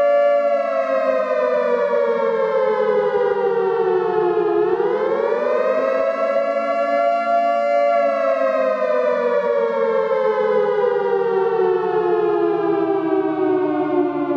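Nuclear alarm siren wailing: one loud pitched tone that holds, sinks slowly, swoops back up about four and a half seconds in, holds briefly, then sinks slowly again.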